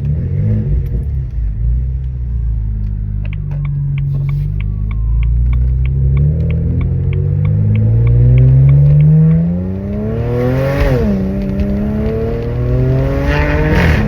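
BMW 335i's N54 twin-turbo straight-six, muffler deleted and running catless downpipes, accelerating: the engine note climbs steadily, drops sharply at a gear change about eleven seconds in, then climbs again and drops at another shift near the end. A regular ticking, about four a second, runs for a few seconds before the pull.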